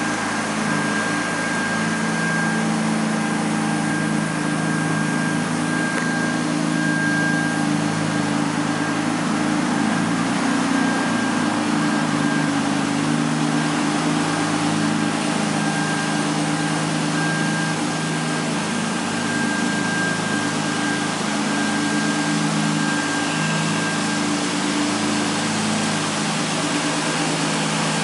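Mazda 323F (BA generation) engine idling steadily.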